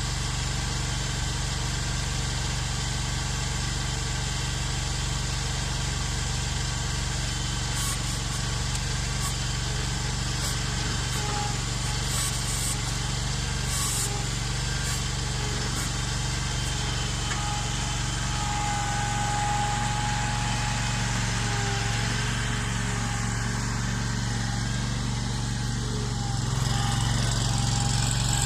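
Ventrac compact tractor's engine running steadily, growing a little louder near the end.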